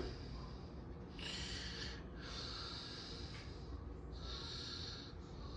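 Low steady rumble of a slow-moving CSX mixed freight train, with a soft hiss that comes and goes about once a second over it.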